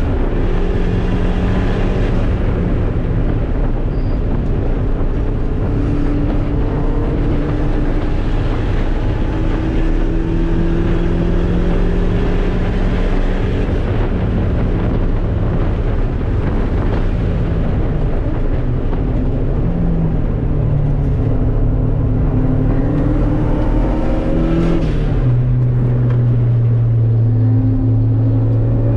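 Track car's engine heard from inside the caged cabin at speed, its pitch climbing slowly for a long stretch, then dropping sharply about 25 seconds in. A steady rush of road and wind noise runs under it.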